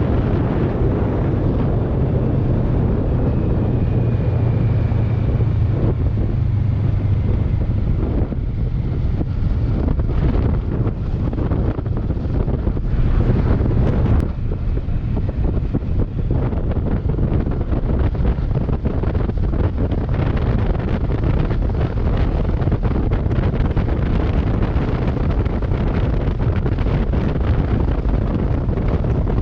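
Wind buffeting the microphone on a moving Kawasaki Versys 650 motorcycle, with the bike's parallel-twin engine running steadily underneath. A low, even engine tone stands out for the first several seconds.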